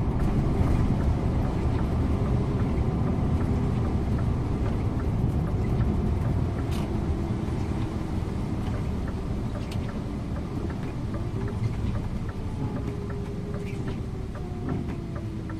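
Scania InterLink coach on the move, heard from the driver's seat: a steady low drone of engine and road noise, with many faint light ticks or rattles. In the last few seconds the engine note glides and the noise eases slightly.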